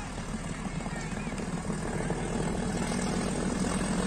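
Diesel locomotive engine running with a steady low drone that grows a little louder about halfway through.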